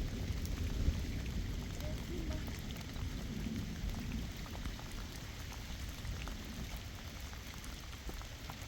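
Rain falling steadily, with many scattered sharp drop ticks over a low rumble.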